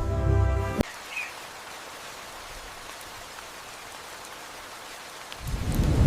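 Steady rain hiss after a piece of music cuts off about a second in, with a brief bird chirp just after. Near the end a low thunder rumble swells up and grows loud.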